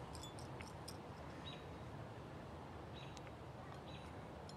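Faint outdoor ambience: a few short, high bird chirps scattered over steady low background noise.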